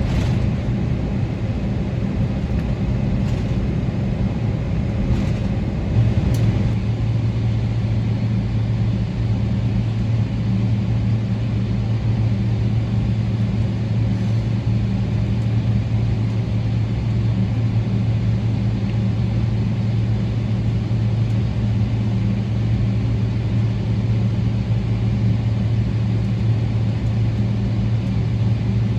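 Steady cabin noise of a Boeing 777-300ER with its GE90 engines running: a constant low hum under a rushing background, the hum growing a little stronger about six seconds in.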